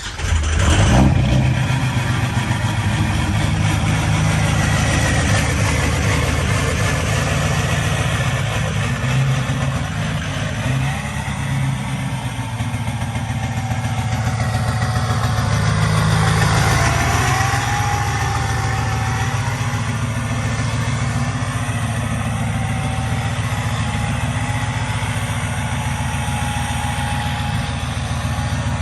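Ford 6.0 Powerstroke turbo-diesel V8 starting up and running loudly, revved briefly a couple of times.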